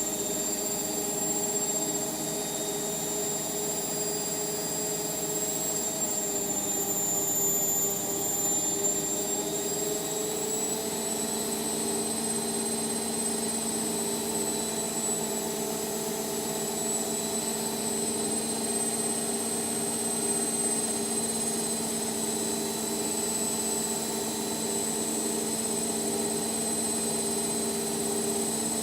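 Indesit washing machine spinning, its motor and drum giving a steady high whine over several lower hum tones, which shift slightly in pitch about a third of the way in.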